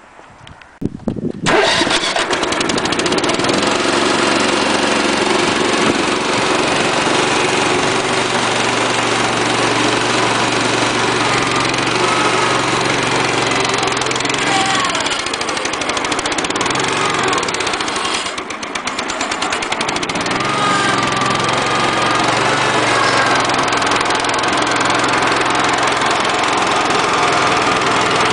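Kohler Pro 13 engine on a garden tractor with a front loader starting about a second in, then running steadily. Its level dips briefly about two-thirds of the way through before picking up again.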